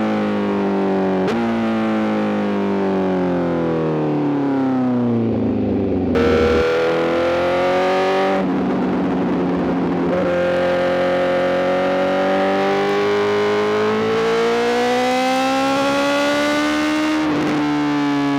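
Honda CBR1000RR-R SP's inline-four engine through a full Arrow GP exhaust. It runs at a falling pitch for several seconds as the bike slows, then pulls up again, the pitch rising in each gear and dropping sharply at each upshift, about four times.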